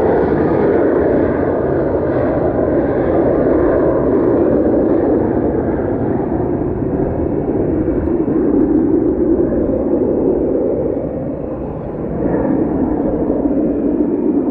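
Airplane engine noise, a loud steady roar whose higher part slowly dulls, as of a plane moving away, with a short dip in level near the end.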